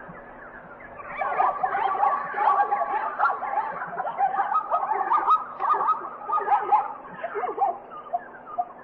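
Many short, overlapping high-pitched animal calls chattering almost without a break, as from a group of animals calling together.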